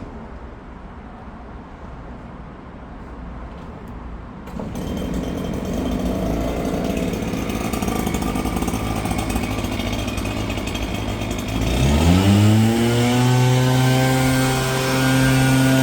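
Small engine of a garden power tool running, getting louder about four and a half seconds in, then revving up near the end and holding at a steady high speed.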